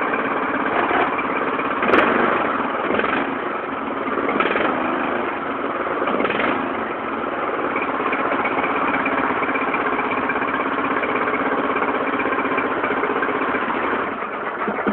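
Lawn tractor's small engine running steadily while it warms up after a cold start, with a sharp click about two seconds in.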